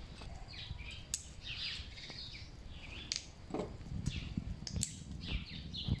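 Small birds chirping and twittering in short repeated phrases, with a few sharp clicks and low knocks mixed in.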